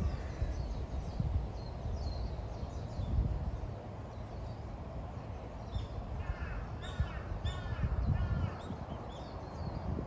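Birds calling in the open: high chirps throughout, and a run of four or five short, louder calls between about six and eight and a half seconds in, over a low rumble.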